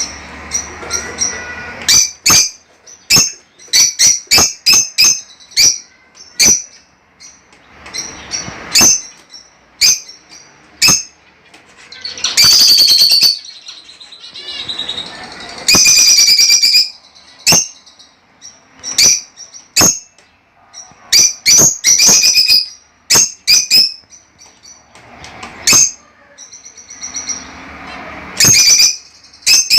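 Budgerigar chirping: many short, sharp, high calls in quick succession, broken by a few longer stretches of chatter lasting a second or more.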